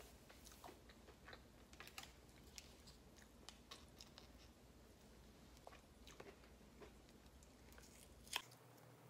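Faint chewing of fried food with soft clicks from handling a small plastic hot sauce packet, and one louder sharp click near the end as the packet is bitten open.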